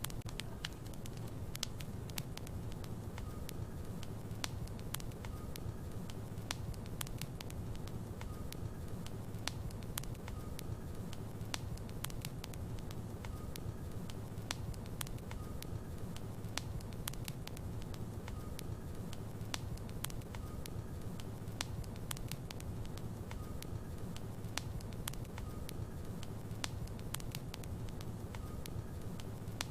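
Wood logs burning in a fireplace, crackling with many sharp, irregular pops over a steady low rumble of the fire.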